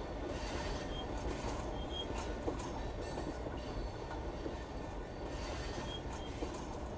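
Amtrak passenger train moving along the track, a steady rumble of wheels on rail with a few short high-pitched wheel squeaks and light clicks.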